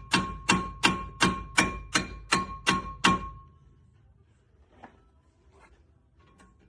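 Nine sharp metallic strikes, evenly spaced about three a second, each with a short ringing tone, stopping about three seconds in; three faint clicks follow near the end.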